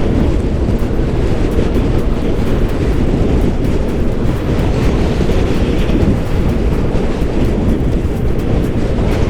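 Steady rush of wind and road noise from a Yamaha Aerox scooter under way. It is heavy in the low end and holds an even level throughout.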